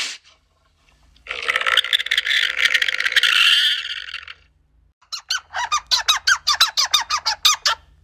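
An alpaca giving a shrill, squeaky call that lasts about three seconds. About five seconds in comes a gray squirrel's rapid run of short chirping calls, about six a second.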